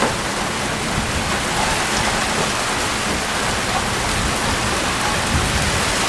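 Steady rain falling and pattering on surfaces outdoors, an even hiss without a break.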